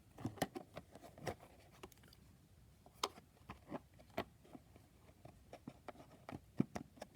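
Trading cards and plastic card holders being handled: light, irregular clicks and taps, a few sharper ones about three and four seconds in and more near the end.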